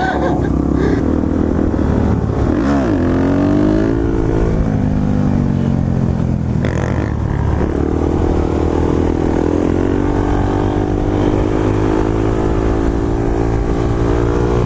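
Suzuki DR-Z400SM supermoto's single-cylinder four-stroke engine running under way, its revs dropping and climbing again several times as the rider works the throttle and gears.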